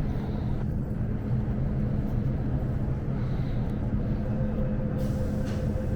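Steady low rumble and hum of an MTR Island Line M-train at an underground station platform. A faint steady whine comes in about four seconds in.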